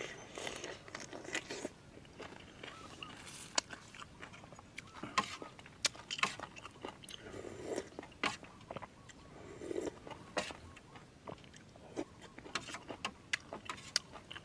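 A man chewing and crunching a mouthful of shellfish close to the microphone: irregular sharp crunches throughout, with wet mouth sounds between them.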